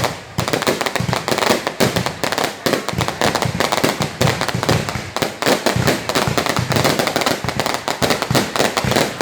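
Fireworks going off in a dense, rapid run of bangs and crackles, many each second, with no pause.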